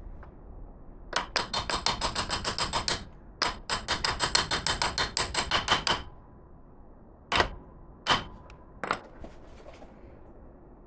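Ratchet wrench clicking rapidly, about ten clicks a second, in two runs of roughly two seconds each, followed by three single sharp clicks.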